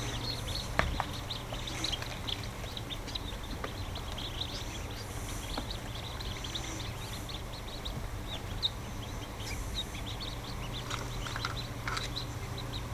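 Many newly hatched ducklings peeping, a dense scatter of short high chirps, over a steady low hum, with an occasional faint knock.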